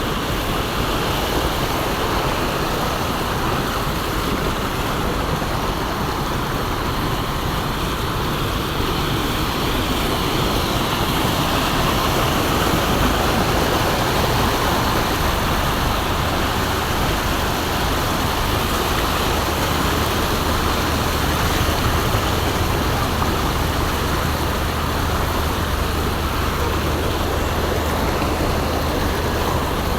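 Heavy rain pouring down in a steady, dense wash of noise.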